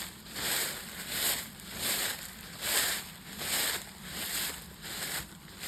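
Footsteps crunching through dry fallen leaves at a steady walking pace, about seven steps, each a short crackling rustle.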